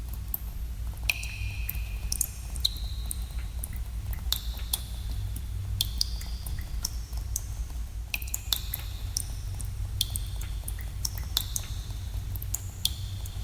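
Water drops falling into pooled water in a cave. Each gives a sharp click and a short ringing plink that dips slightly in pitch, several a second at irregular spacing, over a steady low rumble.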